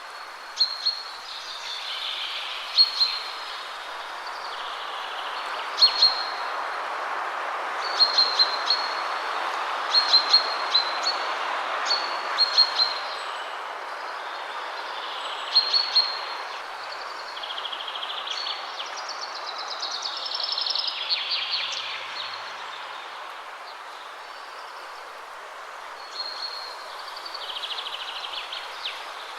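Wind rushing through trees, swelling and easing in gusts, with songbirds giving many short, sharp chirps and bits of warbling song over it.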